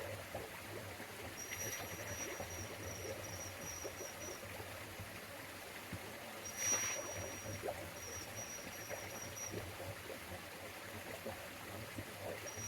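Mountain stream running faintly. A thin, high, fast trill comes and goes several times over the water, and there is one brief sharper noise about seven seconds in.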